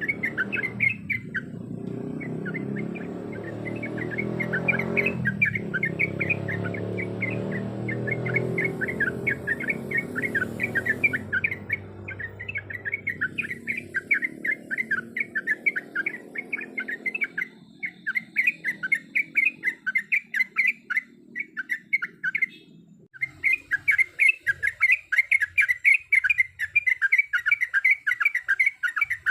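Yellow-vented bulbul (trucuk) giving a long, rapid run of short chirps, many a second, with a brief pause about two-thirds through. A low rumble sits under the first half and fades away.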